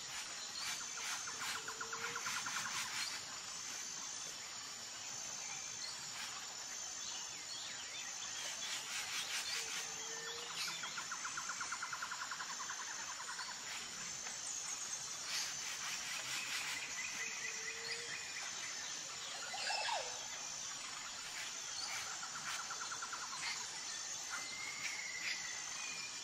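Forest ambience of insects and birds. A high insect chirp repeats about once a second throughout, rapid trills come and go, a short low call sounds every eight seconds or so, and scattered bird chirps are heard.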